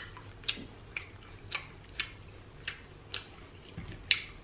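Close-miked chewing of deep-fried battered seafood: short wet mouth clicks about twice a second.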